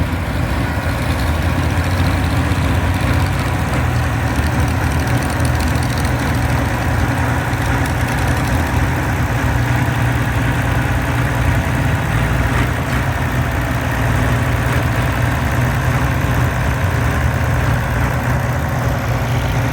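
A large engine idling steadily, with an even low hum and no change in speed.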